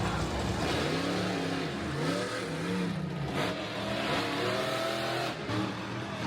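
Monster truck engine revving, its pitch rising and falling again and again.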